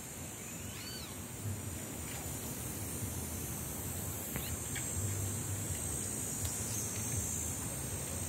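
Outdoor country ambience: one rising-then-falling call, most likely a bird's, about a second in, then a few faint short high chirps over a steady high hiss.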